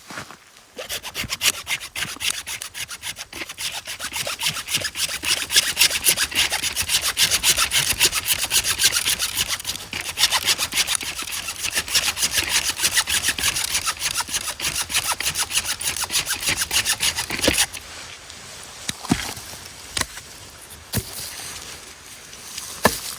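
Wooden-frame bucksaw cutting through wood with quick back-and-forth strokes. The sawing stops about three-quarters of the way through, leaving a few faint knocks.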